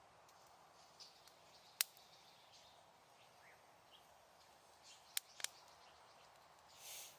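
Small wood bonfire crackling faintly: sharp pops about two seconds in and a quick pair a little after five seconds, over a soft steady hiss, with a brief hiss near the end.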